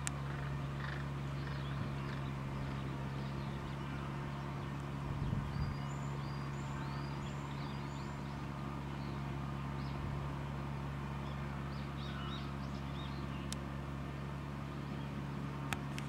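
Small wild birds calling, a run of short high chirps repeating over a steady low hum, with a brief low bump about five seconds in.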